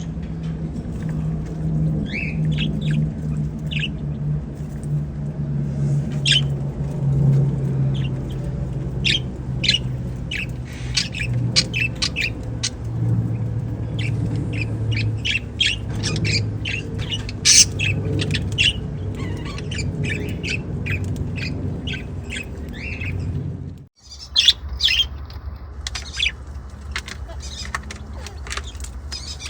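A flock of budgerigars chattering, with many quick high chirps and squawks. A low hum runs underneath and slowly drops in pitch over the first half. The sound cuts out for an instant about three-quarters of the way through, then the chirping goes on.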